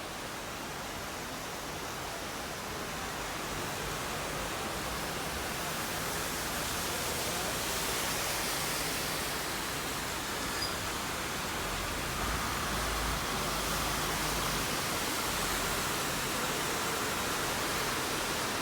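Steady noise of heavy rain and running water, slowly growing louder.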